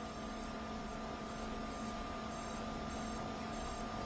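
Steady hum and hiss of running equipment, with a few constant tones, and a faint very high-pitched pulsing that switches on and off several times a second.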